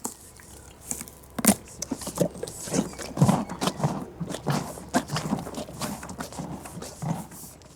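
A horse's hooves thudding and clopping on the ground in an irregular run of steps, with a few heavier thuds.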